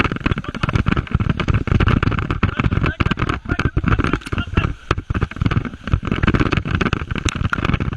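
Whitewater rushing and splashing around a raft: a loud, irregular crackling rush with frequent sharp splashes.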